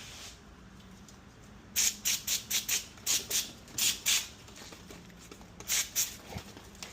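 A quick run of short, scratchy rubbing strokes, as in scrubbing a part clean, about ten in two seconds, then two more near the end.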